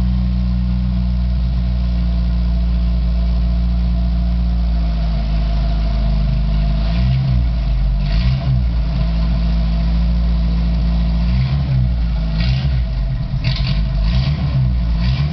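Buggy engine running on its first start: a steady idle for about six seconds, then the engine speed rising and falling again and again as it is revved.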